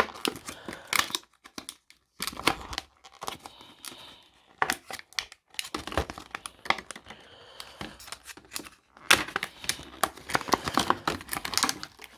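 Hard plastic blister pack being pulled apart and handled, crinkling and crackling in irregular bursts with short pauses.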